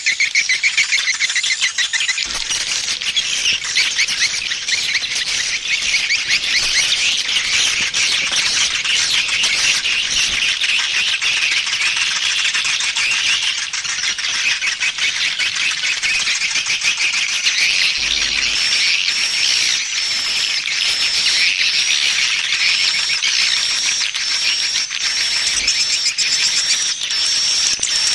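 Swiftlet calling (lure) sound: a dense, continuous twittering of many swiftlets chirping at once. In the last third a regular, repeating high chirp comes in over the chorus.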